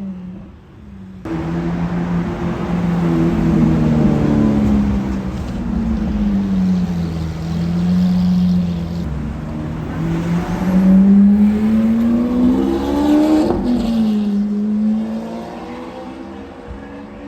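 Lamborghini Aventador's V12 through an aftermarket Capristo exhaust, loud. The engine note starts abruptly a little over a second in and sags for a few seconds. It then climbs steadily under acceleration for about three seconds, drops sharply just before 14 s as at a gear change, and fades toward the end.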